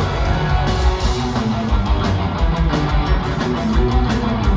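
Live rock band playing an instrumental passage between sung lines, with distorted electric guitar over bass and drums.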